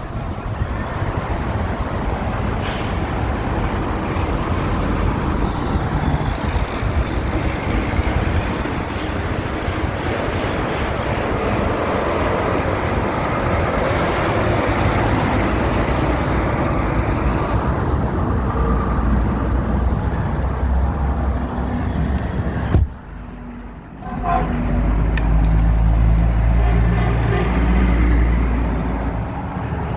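Road traffic with heavy trucks running and passing. The sound drops out briefly about 23 seconds in, then a louder, low truck engine sound follows for several seconds.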